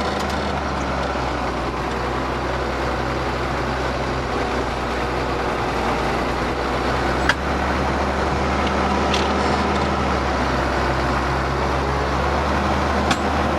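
Ford TW tractor's six-cylinder diesel engine running steadily under load while pulling a plough, with two sharp clicks, one about halfway through and one near the end.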